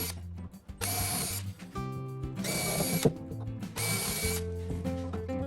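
Cordless drill boring pilot holes through wood in short bursts, with rock background music underneath.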